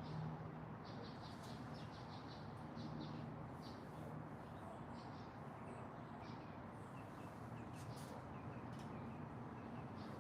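Small songbirds chirping and tweeting in short, scattered high notes, with a quicker run of thin notes in the second half, over a steady background hiss and low hum.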